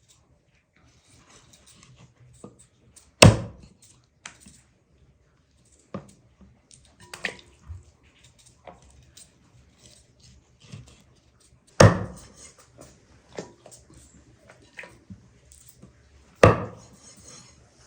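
Sharp knocks and taps from cooking work: three loud knocks about 3, 12 and 16 seconds in, with quieter clicks and taps between.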